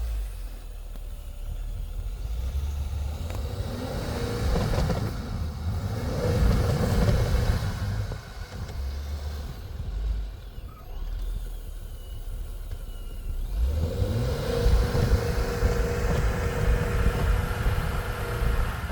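Vehicle engine running and revving in surges under heavy low rumble, climbing in pitch about two thirds of the way through, as the vehicle pushes through deep snow.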